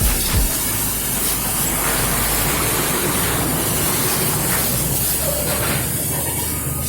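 High-pressure water jet spraying, a steady hiss, during an engine wash at a car wash.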